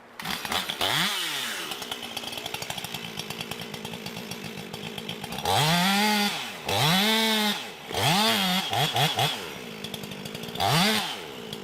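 Chainsaw engine running with a fast ticking idle, revved up and back down several times: a long high run in the middle, a few quick blips, and one last rise near the end.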